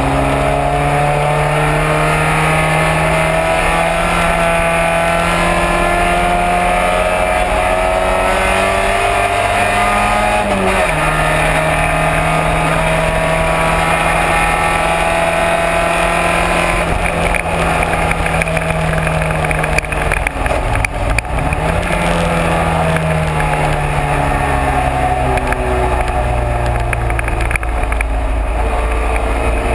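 Race car engine under load, its pitch climbing slowly through a long pull. The pitch drops sharply about ten seconds in, as at an upshift. It falls away again around twenty seconds in, as the driver lifts and shifts down, then climbs as he accelerates.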